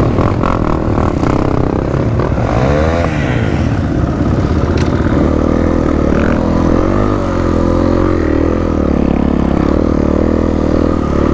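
Dirt bike engines running during a group ride, the pitch rising and falling with the throttle about three seconds in and again about seven seconds in.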